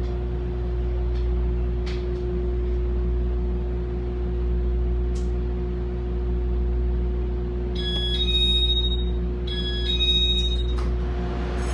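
Steady electrical hum of a Taiwan Railways EMU500-series electric multiple unit, with a low drone and a constant mid-pitched tone. About three-quarters of the way through, two electronic signal tones sound one after the other, each lasting about a second and a half.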